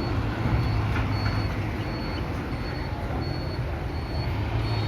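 Heavy vehicle engine running steadily with a low rumble, under a haze of outdoor noise.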